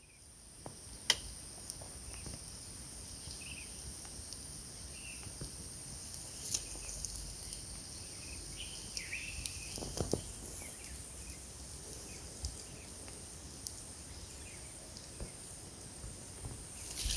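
Night insects calling in a steady, high-pitched drone, with scattered short chirps above it. There are a few sharp clicks or knocks, the clearest about a second in and again about ten seconds in.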